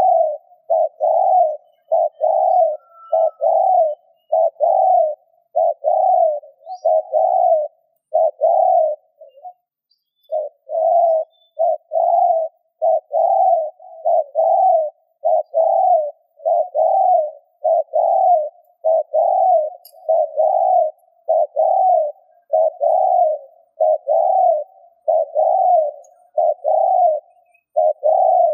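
Spotted dove giving a long run of short cooing notes, about one and a half a second, with a brief break about ten seconds in.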